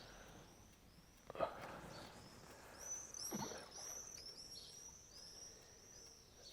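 Small birds chirping, with many short repeated high notes in the second half, and two brief swishes about a second and a half and three and a half seconds in.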